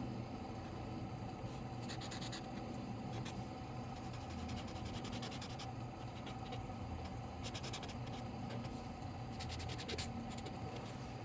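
A drawing tool scratching on paper in several short spells of quick strokes, over a steady low background hum.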